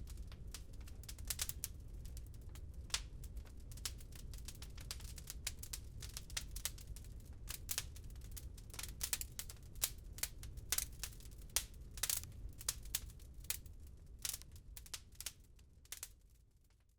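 Wood fire crackling in a fireplace: irregular sharp pops and snaps over a steady low rumble. The sound fades out near the end, dropping almost to silence.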